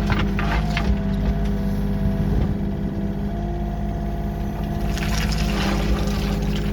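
Heavy diesel engine of work machinery running steadily, with bursts of rattling and clatter near the start and again about five seconds in.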